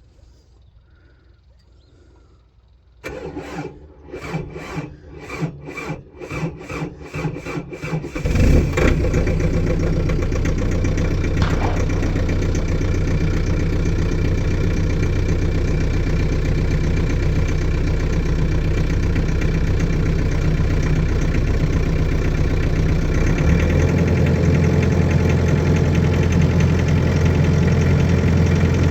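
Volvo ECR58D compact excavator's diesel engine cold-started in freezing weather: the starter cranks it for about five seconds, the strokes quickening, before it catches about eight seconds in and settles into a steady, loud idle. Its low note shifts about 23 seconds in.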